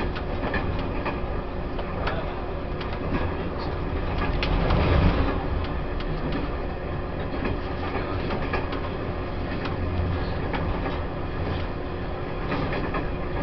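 Running sound of a Taiwan Railways E1000 push-pull Tze-Chiang express at speed: a steady rumble of wheels on rail with frequent short clicks and knocks, swelling briefly about four to five seconds in.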